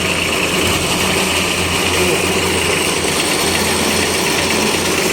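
Kubota B1500 compact tractor's diesel engine running steadily.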